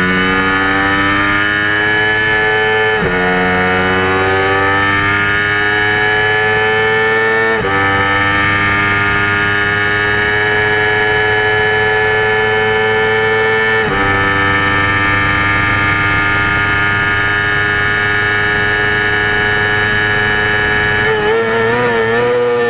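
Yamaha R25's 249 cc parallel-twin four-stroke engine, breathing through an AHM Z1R aftermarket exhaust, running hard at high revs. It climbs in pitch through the gears, with quick upshifts about 3, 7.5 and 14 seconds in, then holds a steady high note before the revs waver and start to fall near the end.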